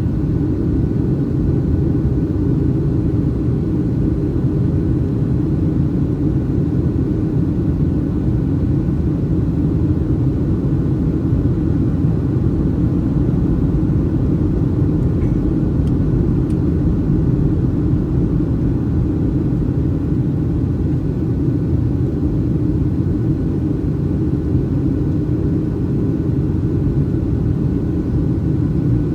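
Steady cabin rumble of a Boeing 737-800 in flight, heard from a seat over the wing: engine and airflow noise, low and even, with a faint steady whine above it.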